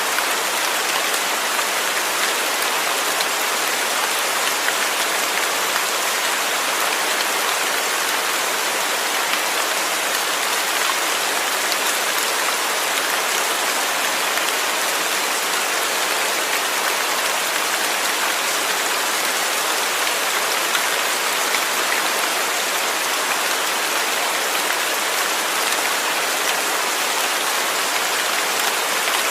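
Steady rain falling, an even, unbroken hiss of drops with no changes.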